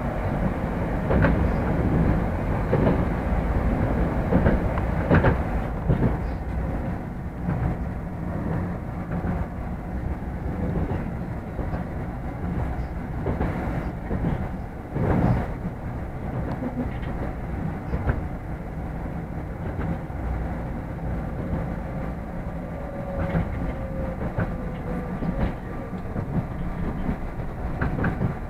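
Moscow Metro train running on the rails, a steady rumble with wheels knocking over rail joints. Near the end a faint whine falls in pitch as the train begins to slow.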